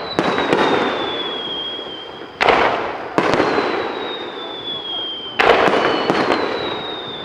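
Aerial firework shells bursting in quick succession, four sharp bangs each trailing off in a decaying crackle.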